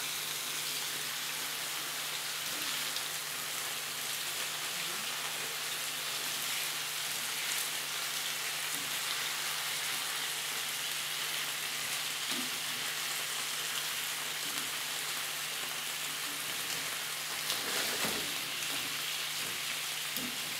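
Chicken pieces frying in hot oil in a pan, a steady sizzle, with a few knocks and scrapes from the fork and spoon turning the pieces near the end.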